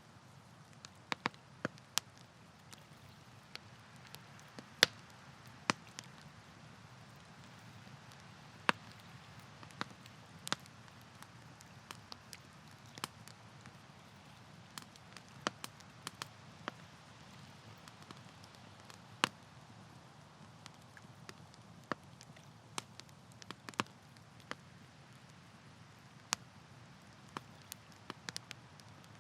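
Wood campfire crackling: irregular sharp pops and snaps, a few a second, over a faint steady low hiss of the burning fire.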